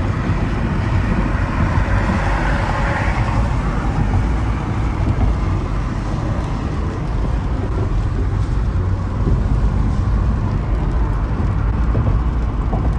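Steady low rumble of a running motor vehicle engine, with a rushing noise that is strongest about two to three seconds in.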